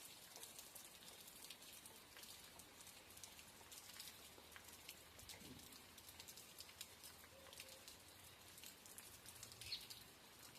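Light rain falling, a faint steady hiss with scattered ticks of drops. A brief high chirp comes near the end.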